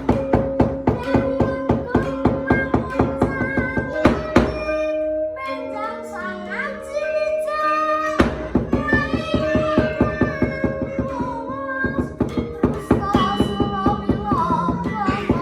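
Javanese wayang music: gamelan with sustained ringing metallophone tones and rapid, rhythmic wooden knocks, the dalang's voice singing. The knocking stops for about three seconds near the middle while a stepped, falling melody and the voice carry on, then starts again.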